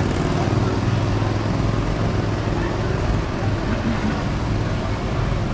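City street traffic noise: a motor vehicle's engine running close by with a steady low hum that eases off after the first few seconds.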